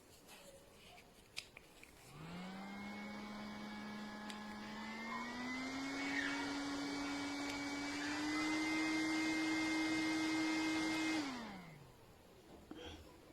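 JISULIFE handheld fan running, its small motor's whine stepping up in pitch twice as it is switched through its three speeds, then winding down to a stop when switched off near the end.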